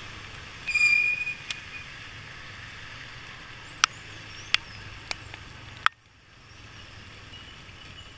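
Motorcycle riding in the rain: steady road and engine noise with a low hum. A short high squeal comes about a second in and several sharp clicks follow later, then the noise drops away abruptly near the end.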